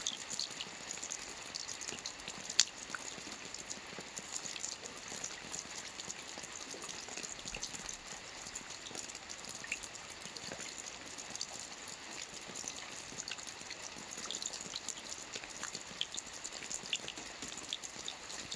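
Soft rain falling on a roof: a steady fine patter with scattered distinct drop ticks, and one sharper, louder drop about two and a half seconds in.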